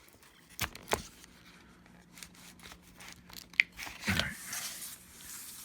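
Adhesive tape under a MacBook Pro battery being pried and peeled loose: a few sharp clicks of the pry tool, then a longer tearing rustle about four seconds in.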